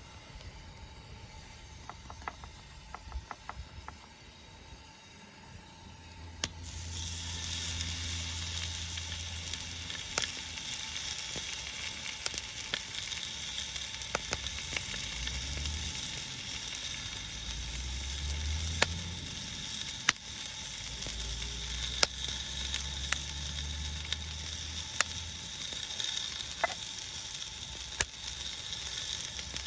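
Food frying in a hot pan, sizzling with scattered pops; the sizzle starts suddenly about six seconds in.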